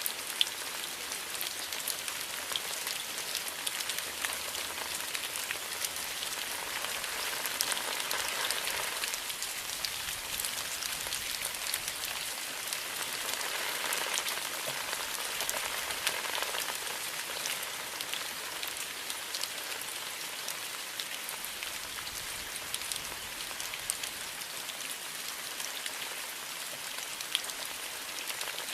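Steady rain, an even hiss dotted with many individual drops ticking, swelling slightly a couple of times.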